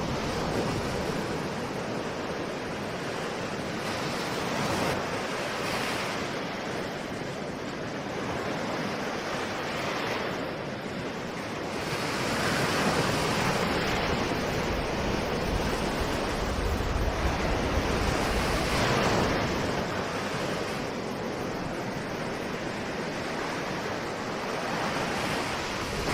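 Ocean waves breaking and washing on a shore, the surf swelling and easing every few seconds, louder for a while in the middle, with some wind on the microphone.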